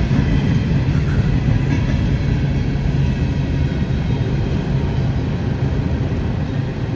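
Freight train rolling past, a steady low rumble with a constant droning tone.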